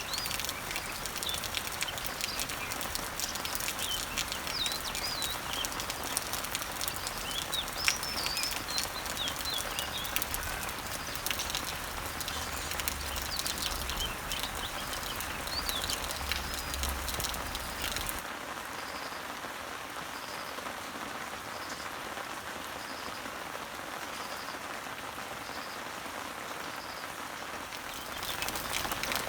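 Steady rain falling on leaves, with birds chirping over it for the first half or so. Partway through, the chirping stops and the rain continues, with a faint high note repeating about once a second.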